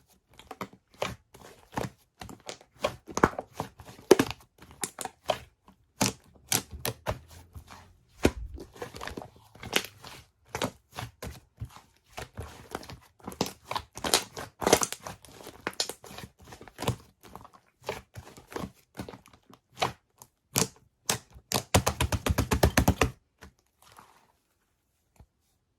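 Fluffy slime being squished and stretched by hand, with many sharp pops and crackles of air pockets. A fast run of pops comes near the end, then the sound stops.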